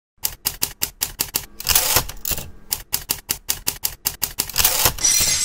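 Rapid key clicking, about five sharp strikes a second, broken twice by a longer rasping sweep, with a short high ring near the end.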